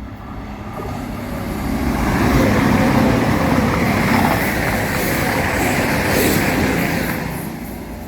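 A vehicle passing close by: a loud rushing noise with a low hum underneath, building over the first two seconds, holding, then fading away near the end.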